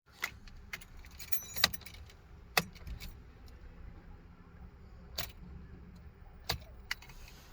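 Car keys jangling, with a handful of sharp clicks spaced a second or more apart.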